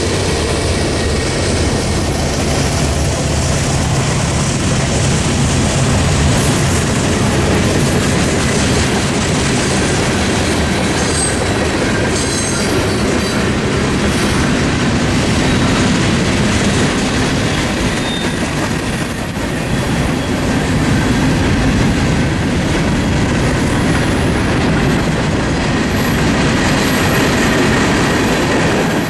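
Freight train cars rolling past on the rails, a steady loud rumble and clatter of wheels. From about halfway through, a thin, high wheel squeal rides over it.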